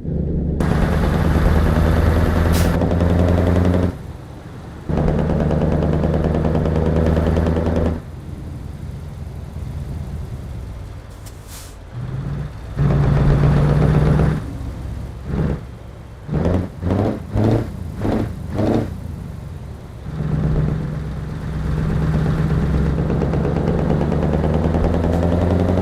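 Scania V8 diesel truck engine revved and held at steady high revs in several long pulls, falling back toward idle in between. Near the middle comes a run of five or six quick, sharp throttle blips.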